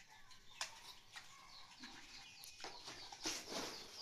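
Faint bird chirping, many short repeated chirps, with a few sharp clicks.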